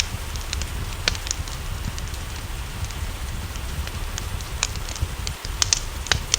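Wood fire in a fireplace crackling, with a handful of sharp pops (one about a second in and a cluster near the end), over a steady hiss of rain and a low rumble.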